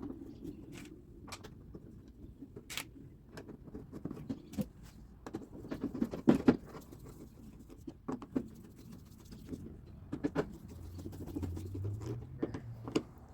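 Scattered clicks, light metal knocks and scraping as a car door latch assembly is handled and worked into place inside the door.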